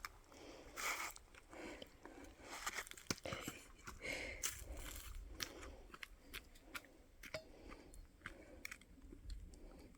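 Irregular crunching of gravel and small stones, with scattered sharp clicks.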